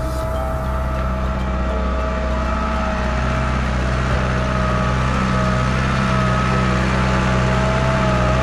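Same Silver 100.4 tractor's diesel engine running steadily under load while pulling a harrow, with a steady, slightly wavering whine over the engine note. It grows slightly louder as it goes.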